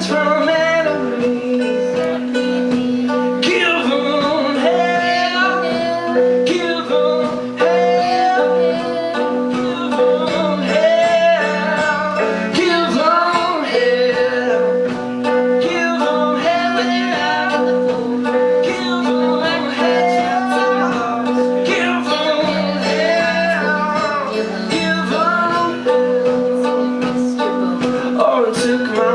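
Live band music: guitar playing with a singer's voice over it, loud and continuous.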